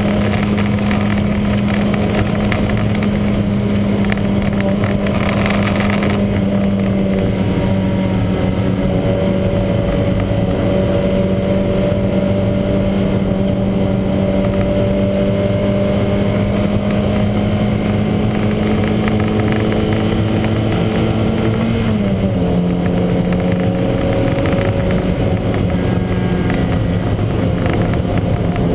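Lancia Montecarlo race car's four-cylinder engine running hard and loud, its pitch sinking slowly and then stepping down abruptly once about three quarters of the way through.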